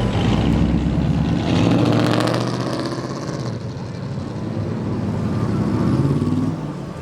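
Car engines running as vehicles cruise past, the engine sound swelling and fading twice, with a drop near the end.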